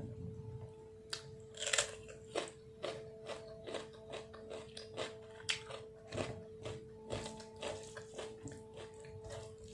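Close-miked chewing and crunching of food, with sharp crunches coming about twice a second.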